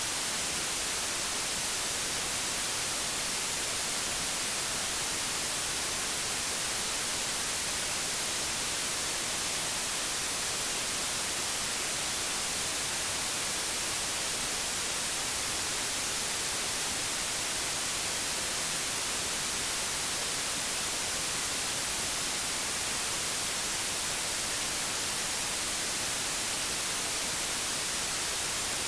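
Television static: a steady, even hiss, strongest in the high end, with no change.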